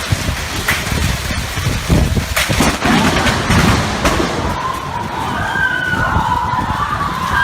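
Rain with a loud crack of close lightning about two seconds in. From about four and a half seconds, a wavering, siren-like electronic wail starts up.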